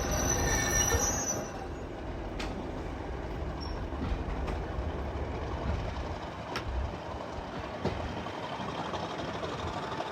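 A railway train running on the track: a high wheel squeal dies away in the first second or so, leaving a steady rumble with a few sharp clicks, about one every two seconds.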